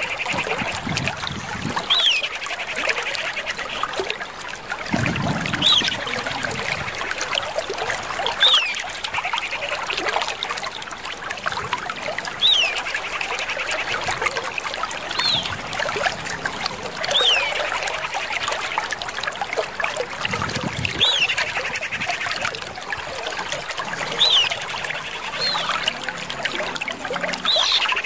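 Common iora calling: short, sharp whistled notes that slide downward, repeated every two to three seconds over a constant dense hiss.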